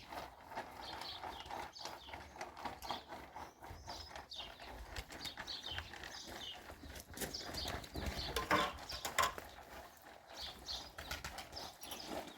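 Irregular knocks and taps, with a few louder knocks a little past the middle.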